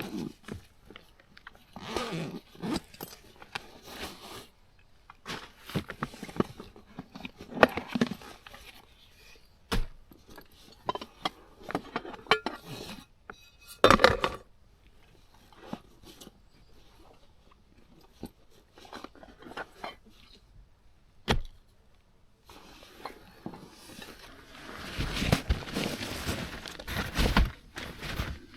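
Camping gear being handled while a tent is pitched: irregular rustling and crunching, with a few sharp clicks and clinks. A longer stretch of rustling comes near the end.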